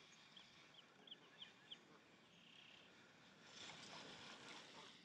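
Near-silent lakeside quiet in which a bird gives five short, high chirps in quick succession in the first two seconds. A soft rustling hiss follows near the end.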